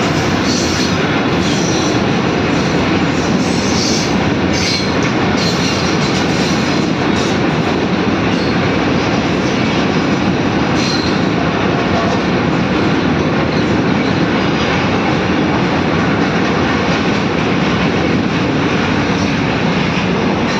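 Train running along the track: a steady, loud noise of wheels on rails, with occasional sharp clicks, most of them in the first third.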